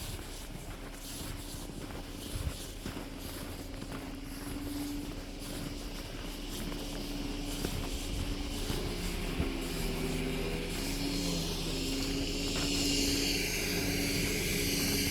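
Engine hum of a motor vehicle, growing slowly louder, with more tones joining about halfway through and a hiss rising over the last few seconds.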